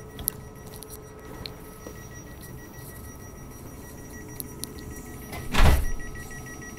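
Interior of an electric commuter train pulling out of a station: a steady running hum with constant electrical whines and scattered light clicks. About five and a half seconds in there is a brief loud burst, a thump and rush.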